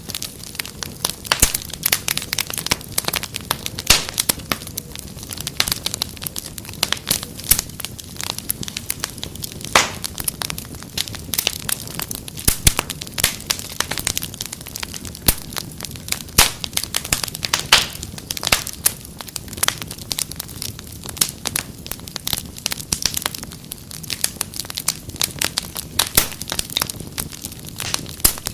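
Wood fire crackling: irregular sharp pops and snaps, many a second, over a soft steady hiss.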